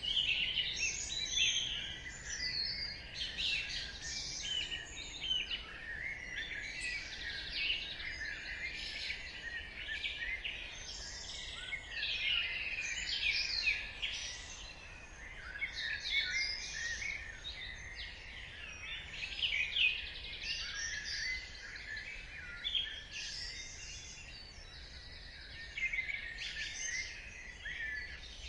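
Dawn chorus: many small birds chirping and singing at once, their short overlapping calls and trills running without a break.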